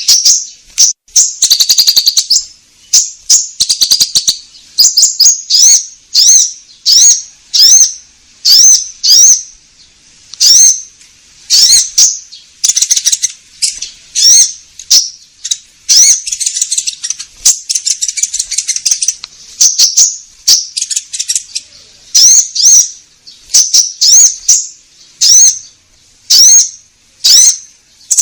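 Konin bird singing: short, high, curved whistled calls repeated about once a second, broken up now and then by quick runs of rapid chattering notes.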